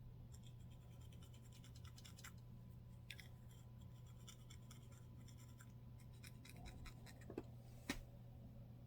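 Faint, close scratching at a scalp flaked with dandruff: runs of quick, fine scratches and ticks, with two sharper clicks near the end. A low steady hum lies underneath.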